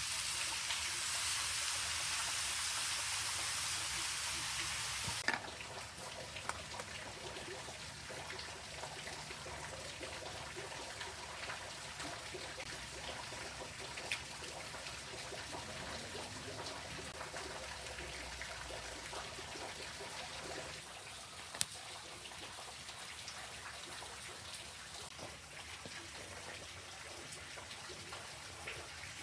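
Running water: a steady hiss that drops off suddenly about five seconds in, leaving a quieter trickling patter with a few sharp clicks.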